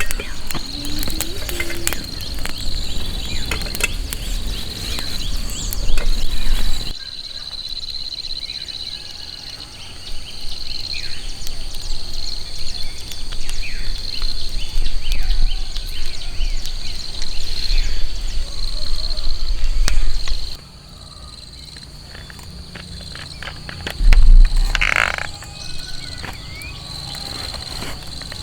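Insects trilling steadily in one high continuous note, with scattered light taps and patter over it. The background drops abruptly twice, and a louder low thump sounds near the end.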